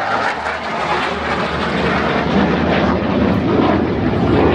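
Engine noise of an F-16 fighter jet in flight, a loud steady rushing noise with a low hum underneath, growing a little louder towards the end.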